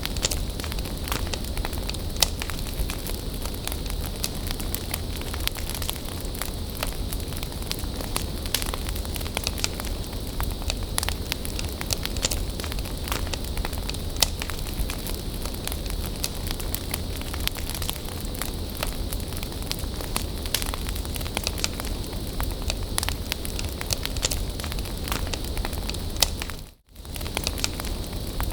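Wood bonfire crackling, with frequent sharp pops and snaps over a steady hiss of burning. Near the end the sound drops out for a moment and comes straight back.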